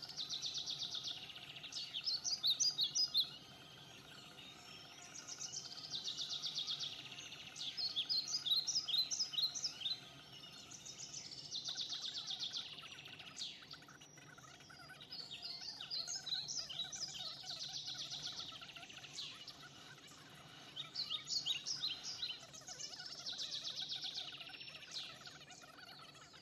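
A songbird singing the same short song over and over, every four or five seconds: a fast trill followed by a run of separate, quicker notes.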